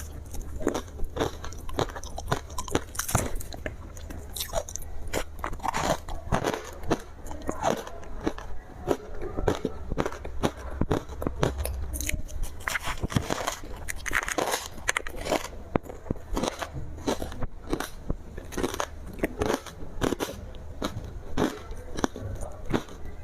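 Close-miked biting and chewing of ice with matcha: a continuous run of sharp cracks and crunches, several a second, as the ice is crushed between the teeth, over a faint low hum.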